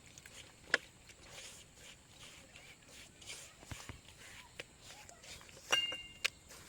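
Wet masala paste of spices, curd and lemon juice being mixed by hand in a bowl: faint, irregular rustling, with a sharp click about three-quarters of a second in and a short high chirp near the end.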